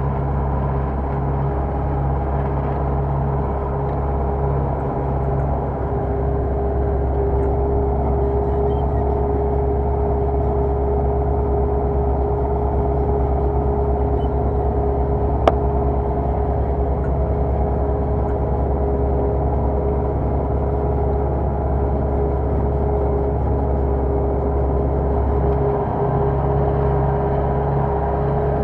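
Belarus MTZ tractor's four-cylinder diesel engine running steadily under load while pulling a plough, with a single sharp click about halfway through.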